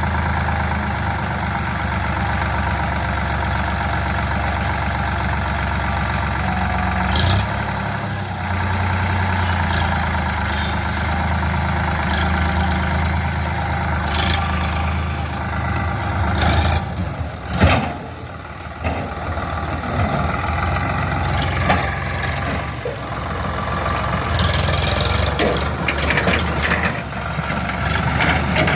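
Tractor engine running steadily, with a few sharp clanks or knocks over it and a brief drop in engine level about two-thirds of the way through.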